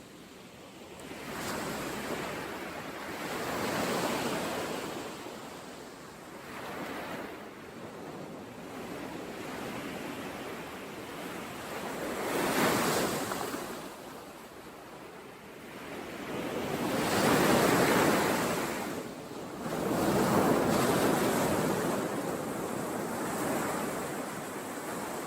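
Ocean waves breaking and washing up a shore, the surf swelling and ebbing in several surges, the loudest ones a little past halfway and near the end.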